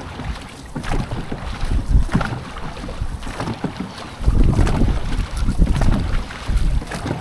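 Dragon boat crew paddling steadily, with paddles catching and pulling through the water. Wind buffets the microphone, heavier from about four seconds in.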